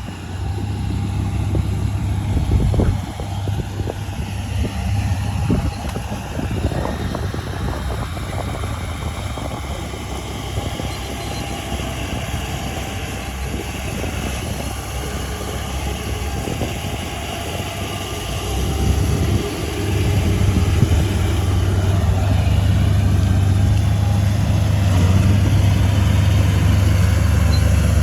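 Heavy machinery diesel engine running steadily, with a few short knocks in the first several seconds; it grows louder from about twenty seconds in.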